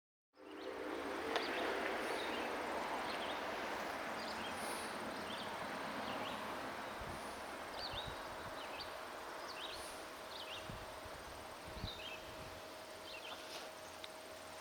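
A steady rushing hiss that slowly fades, with a small bird's short high chirps repeating about once a second over it.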